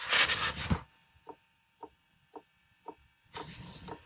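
Espar 12V fuel dosing pump ticking about twice a second as the gasoline heater starts up. Loudest is a burst of rustling noise in the first second, with a shorter, softer one near the end.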